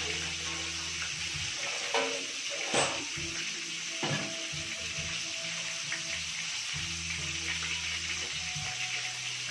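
Chicken pieces frying in hot oil in a pan on a gas burner: a steady sizzle, with a few sharp pops about two to four seconds in.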